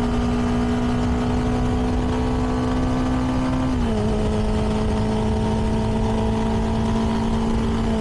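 CFMoto 300NK's single-cylinder engine through its stock exhaust, running steadily under way. About four seconds in the engine pitch drops quickly, then holds and slowly sinks.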